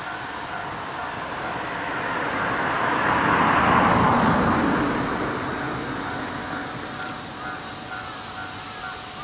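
A vehicle passes, its noise rising to a peak about four seconds in and then fading. Crows caw in the last couple of seconds.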